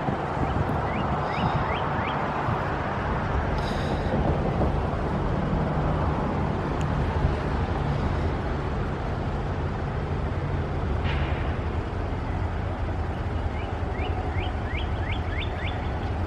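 Train rolling past with a steady low rumble that holds at an even level throughout.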